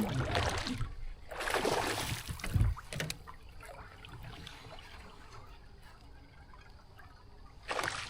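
Water splashing and trickling against a kayak, in two bursts in the first three seconds with a thump near the end of the second, then quieter lapping and another short splash near the end.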